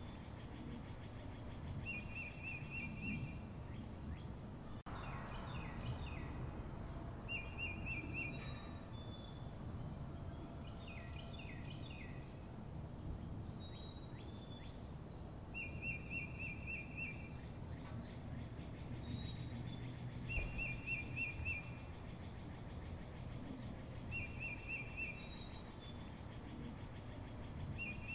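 Several songbirds singing outdoors: short rapid trills come again every few seconds, mixed with high falling whistles and scattered chirps, over a steady low background rumble. A single sharp click about five seconds in.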